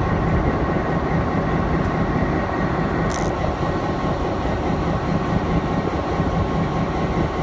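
Diesel train engine running steadily with a low hum, and a short burst of hiss about three seconds in.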